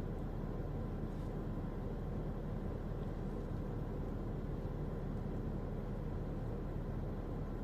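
Steady low rumble with a faint hum and no distinct events.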